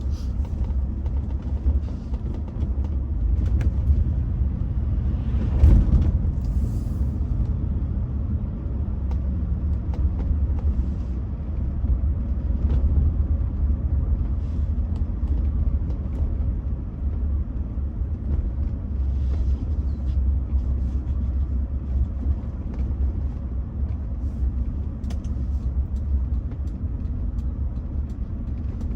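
Car driving on the road, a steady low engine and road rumble heard from inside the cabin, with a brief louder rush about six seconds in.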